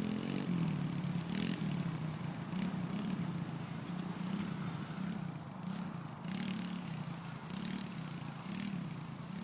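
Kawasaki 110 dirt bike's small single-cylinder four-stroke engine running while the bike is ridden in first gear, its pitch rising and falling about once a second as the throttle is opened and eased off.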